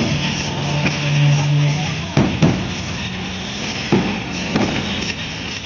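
Fireworks going off: a series of sharp bangs, roughly one every second or so, over steady crowd noise and music.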